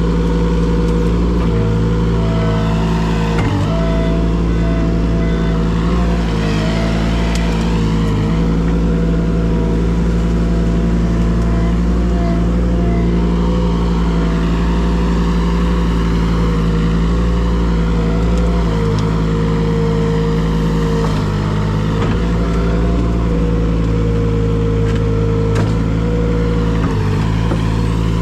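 An engine running steadily at an even speed, loud, with only brief small dips in its sound.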